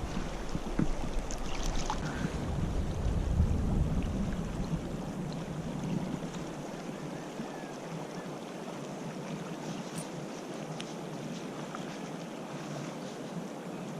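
Water lapping around a kayak, with wind rumbling on the microphone for the first five seconds or so before it dies down, and a few faint ticks.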